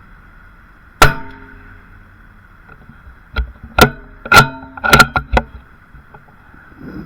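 A single .22 rimfire rifle shot about a second in, followed a couple of seconds later by a quick run of five or six sharp metallic clicks and clacks as the rifle's action is worked for the next shot.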